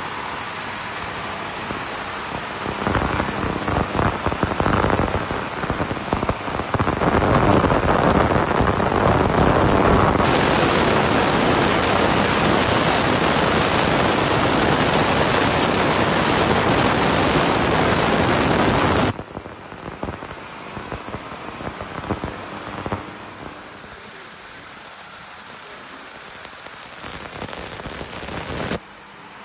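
Ultrasonic cleaning tank running, its bath giving a steady, rain-like hiss. The hiss grows louder about a third of the way in and drops suddenly about two-thirds through, settling at a lower level.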